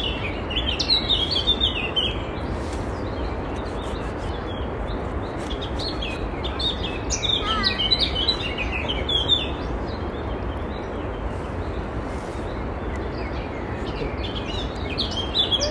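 Songbirds chirping in bursts of quick, high notes, around the start, through the middle with a falling wavering whistle, and again near the end, over a steady rushing background noise.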